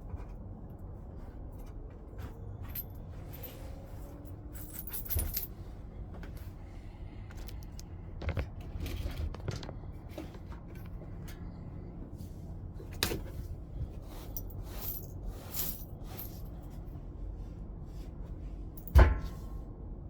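Flintknapping: a stone being worked with knapping tools, giving irregular clicks, ticks and short scrapes of tool on stone, with one sharp, loud strike near the end.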